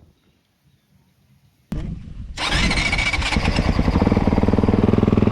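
Motocross bike engine started about two seconds in: a short burst of cranking, then it catches and settles into a steady, rapidly pulsing idle as it warms up.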